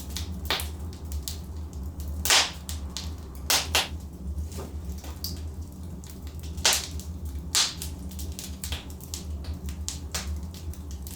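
Wood logs burning in a fireplace, crackling with scattered small clicks and several louder sharp pops over a low steady rumble.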